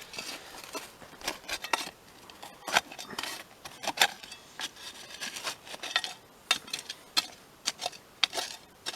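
Digging in dry soil around potato plants: irregular scrapes, crunches and clicks of soil and stones being worked loose, several a second.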